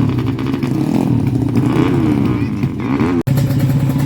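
Honda Karisma's single-cylinder four-stroke engine running and revving up and down during tuning, with the sound cutting out for an instant about three seconds in.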